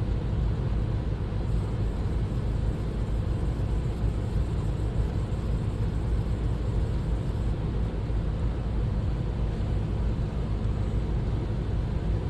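A steady low rumble, unchanging throughout, with no distinct knocks or strokes.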